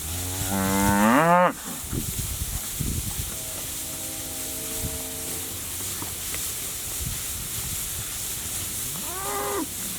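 Cattle mooing: one loud moo that rises and falls at the start, a fainter long steady moo in the middle, and a short moo near the end, over steady wind hiss.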